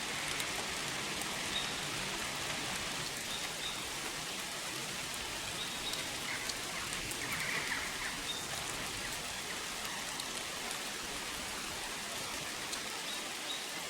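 Steady rain, an even hiss, with a few faint short high chirps over it.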